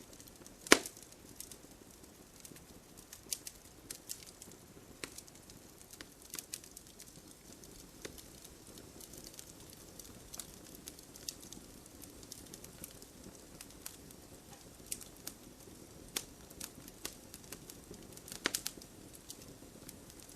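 Wood fire burning in a fireplace: irregular sharp crackles and pops over a low steady rustle, with a loud pop about a second in and a cluster of pops near the end.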